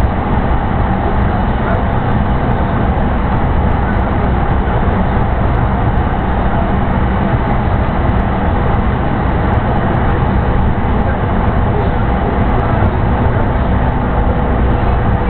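Joban Line commuter train running steadily between stations, heard from inside the car: an even rumble of wheels on rail and running gear.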